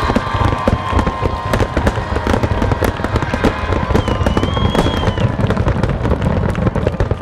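Fireworks going off in a rapid barrage: many overlapping booms and sharp cracks over a continuous low rumble. A whistling shell sounds about four seconds in.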